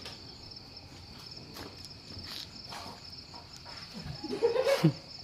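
Crickets chirping steadily in a fast pulsing trill, with a few faint clicks. Near the end comes a short, loud cry with a falling pitch, from a person or an animal.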